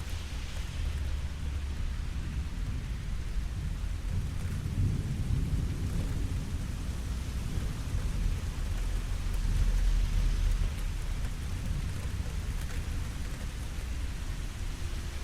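Steady rain falling, with a low rumble of thunder underneath that swells twice, about a third of the way in and again about two-thirds through.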